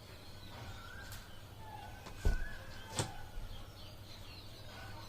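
Two sharp knocks about two-thirds of a second apart, from the PVC dumbbell plates and bar being handled during assembly. Birds chirp faintly in the background.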